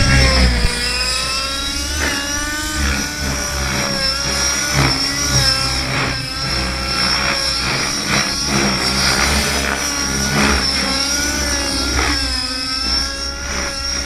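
Engine-powered radio-controlled helicopter flying, its engine and rotor note wavering up and down as the throttle and pitch change.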